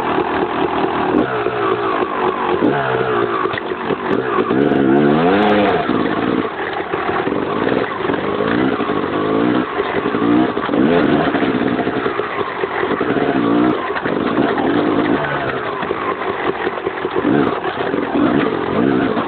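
Honda enduro motorcycle engine revving up and down again and again as the bike is ridden, picked up by a camera on the swingarm, with a steady rushing noise underneath.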